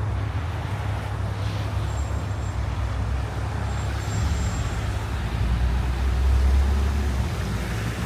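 City road traffic on snowy streets: a steady low rumble of passing vehicle engines and tyres, swelling louder past the middle as a vehicle comes close.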